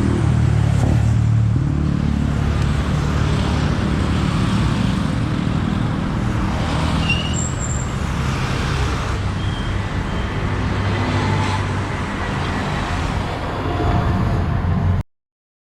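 Royal Enfield Bear 650's 648 cc parallel-twin engine running steadily while riding, heard from onboard with wind noise over the microphone. The engine grows slightly louder near the end, then the sound cuts off abruptly.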